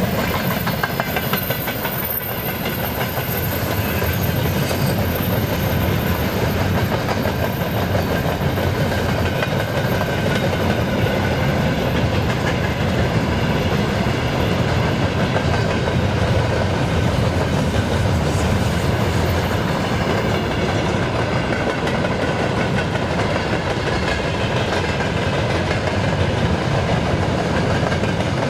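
Train hauled by a VL10U electric locomotive passing close by. Its wheels run steadily over the rails throughout.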